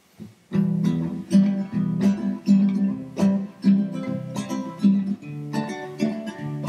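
Acoustic guitar strummed in a steady rhythm of chords, starting about half a second in: the instrumental introduction before the singing comes in.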